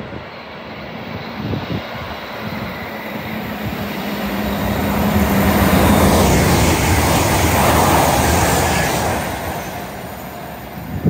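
A GWR Intercity Express Train (Class 800-series IET) passing through the station without stopping. Its rumble and rush rise over the first half, are loudest from about halfway to near the end as it goes by, then fade away, with a steady low hum from the train under the approach.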